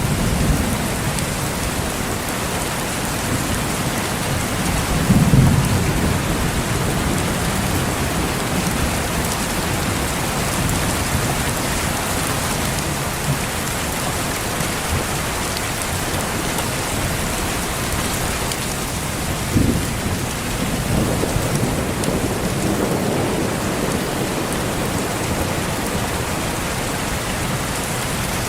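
Steady rain falling, with rolls of thunder. There is a rumble about five seconds in and another about twenty seconds in that rolls on for a few seconds.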